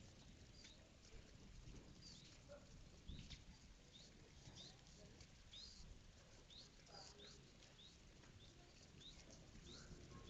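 Faint high-pitched bird chirps, short and curling in pitch, repeated about twice a second over a low background rumble.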